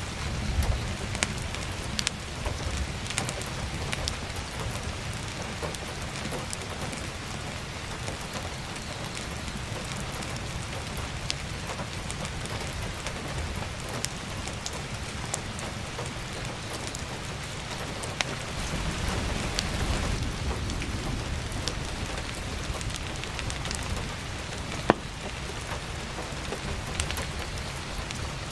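Heavy rain falling steadily, with scattered sharp pops and cracks of burning firewood. A low rumble swells about two-thirds of the way through.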